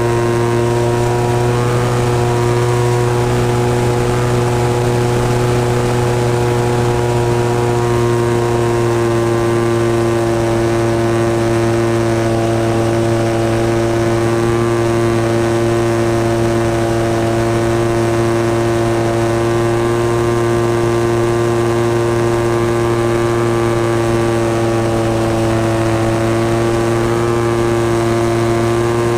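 A model plane's 26cc two-stroke gasoline engine running steadily at high throttle, its pitch sagging a little near the end and then picking up again.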